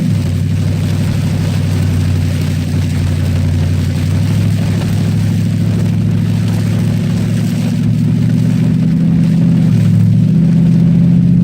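Cadillac STS-V's supercharged V8 engine running hard on track, its pitch rising and falling with the throttle, with a short dip about ten seconds in.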